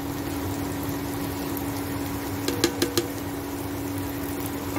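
Onions and tomatoes sizzling steadily in oil in a wok as spice powders go in, over a constant low hum. About two and a half seconds in come three quick sharp taps against the pan.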